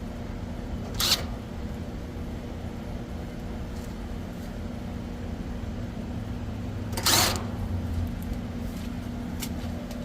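Steady low mechanical hum, with two brief rustling scrapes: one about a second in and a louder one about seven seconds in.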